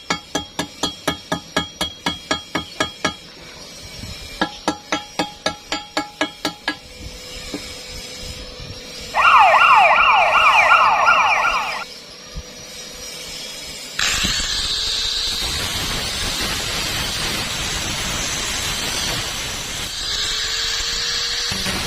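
Metal struck in quick ringing blows, about three a second, in two runs. Then a loud, fast-repeating falling warble for about three seconds, and from about halfway on a steady harsh hiss.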